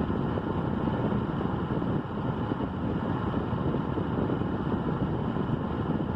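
A steady, low, unpitched rumble with no words over it.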